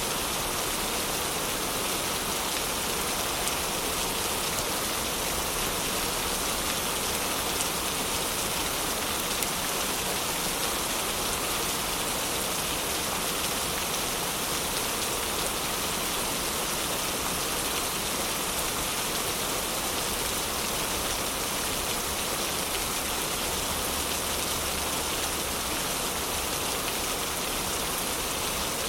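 Heavy rain falling steadily: an even, unbroken hiss of rain with no let-up.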